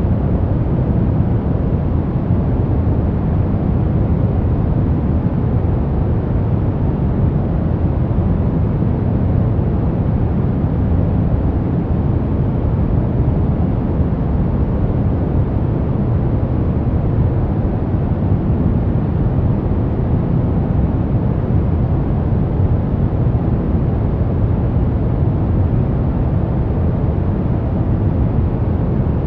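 Steady, unbroken sleep-aid noise, sold as white noise but weighted toward the low end: a deep, even rumble with only a faint hiss above it.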